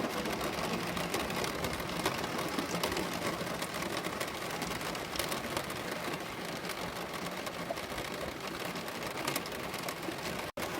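Steady rain falling, an even hiss with many small drop hits, cut off abruptly near the end.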